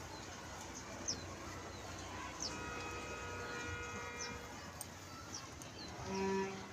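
Outdoor rooftop ambience with small birds giving short high chirps every second or so over a low steady background hum; a distant steady tone sounds for about two seconds midway, and music with a pulsing beat starts near the end.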